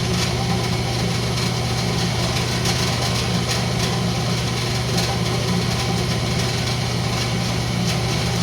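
Wood lathe running with a steady motor hum and a hiss over it, from a cotton rag buffing wax into the spinning rosewood pull.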